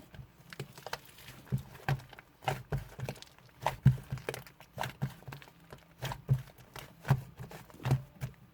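Yellow slime being squished and poked by hand, making irregular sharp wet clicks and pops, each with a soft low thud, a few every second.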